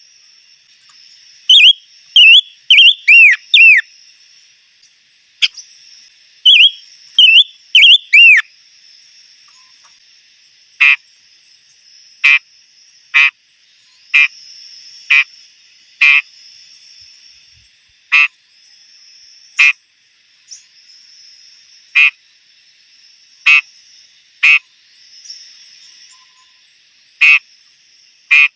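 Bird calling: first quick groups of loud, downward-slurred whistled notes, then from about ten seconds in a short, coarse, croaking call repeated roughly once a second. A steady high hiss runs underneath.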